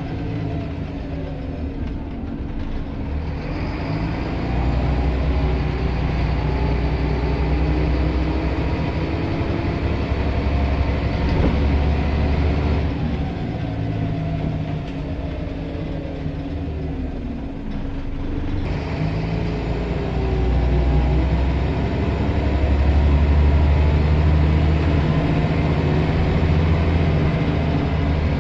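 Scania L94 bus engine and drivetrain running under way, pulling harder in two stretches, with whining tones that glide down and up as road speed and revs change.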